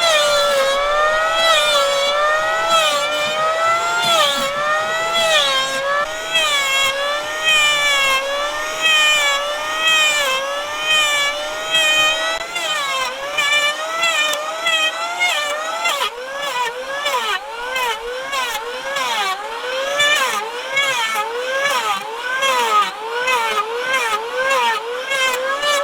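Wood being sawn in steady back-and-forth strokes, the tone rising and falling with each stroke. The strokes quicken about two-thirds of the way through.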